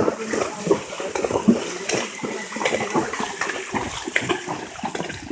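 Irregular water splashing and sloshing, as a horse's hooves wade through shallow water.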